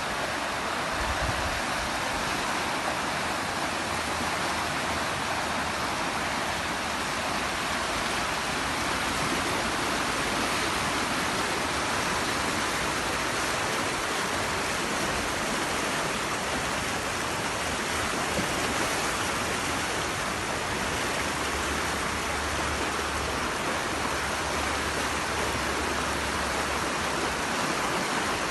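Steady rush of running water from a wadi flowing in flood after rain.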